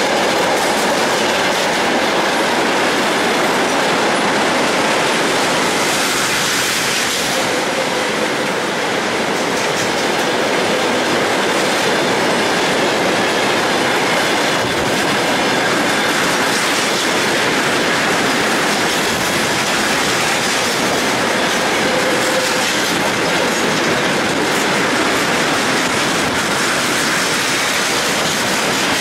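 Freight train wagons rolling past at a steady speed: a continuous clatter of wheels on the rails, with a thin wheel squeal mixed in.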